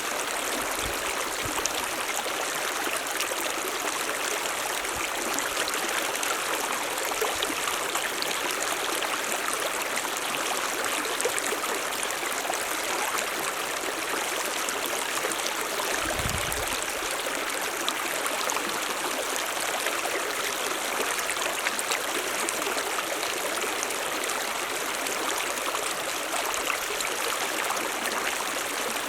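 A mountain stream running steadily over rocks, a continuous splashing rush of water with no change in level. About sixteen seconds in there is a brief low rumble under it.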